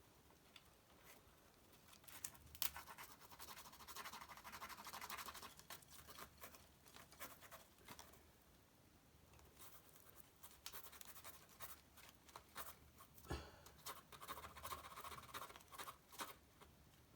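Faint scraping of birch bark, in two spells of repeated scratching strokes with small clicks between them and a single sharper knock near the middle.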